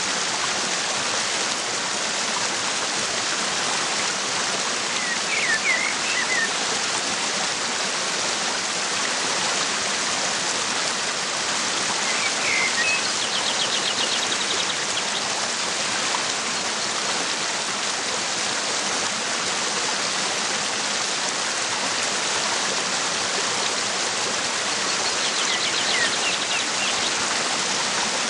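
Waterfall rushing steadily, with small birds chirping faintly a few times in short calls and quick trills.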